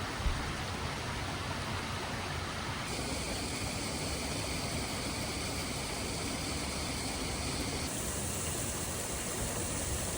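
Steady rush of flowing water, whose tone shifts abruptly twice, about three and eight seconds in.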